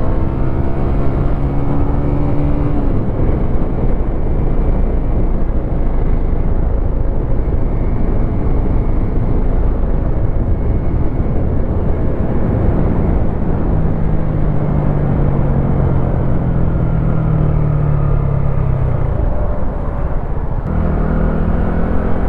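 Wolf Classic 125cc motorcycle engine running under way, over a heavy low rushing noise. The engine note falls about three seconds in, holds steady through the middle and shifts again near the end.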